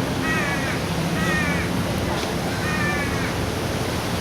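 Wild conures of San Francisco's Telegraph Hill flock calling from the trees: four short, wavering squawks, about one a second, over a steady background hiss.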